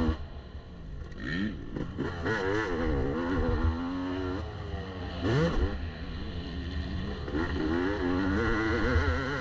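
2019 Yamaha YZ250 two-stroke single-cylinder engine revving up and down as the throttle is opened and closed around the motocross track, with a few brief knocks.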